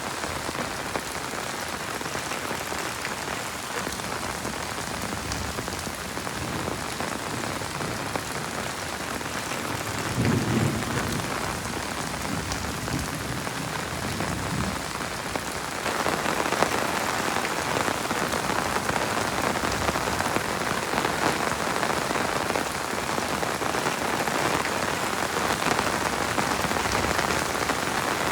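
Heavy rain falling steadily as a dense hiss, with a brief low rumble about ten seconds in. The rain grows heavier and louder from about sixteen seconds in.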